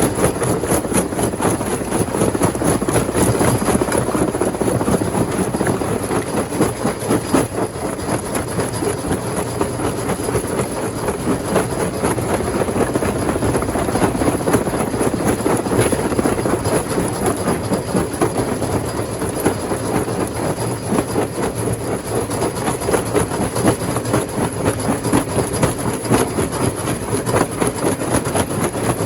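Rock crusher machine running under load: a steady heavy mechanical din with a dense, continuous clatter of stone being crushed and rattling through it.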